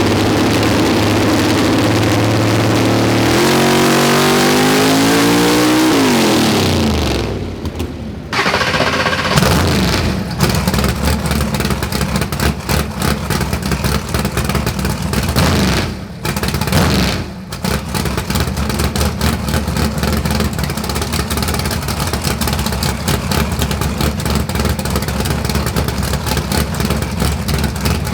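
Nova drag car's engine on a hub dyno, running under load with its note climbing in pitch through a pull. It cuts off about seven seconds in, then settles into a loud, choppy idle.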